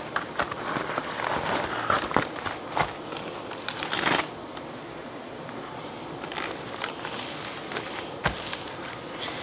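Packaging material being handled as an order is packed: crinkling and rustling for about four seconds, then quieter, with a few light taps and clicks.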